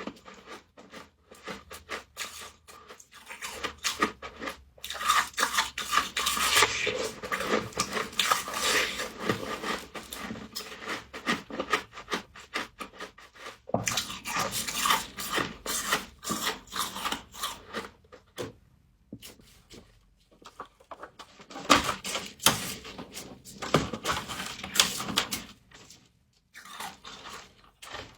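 Close crunching and chewing of humidifier frost: dense runs of crisp crackling bites, broken by a few short quieter pauses.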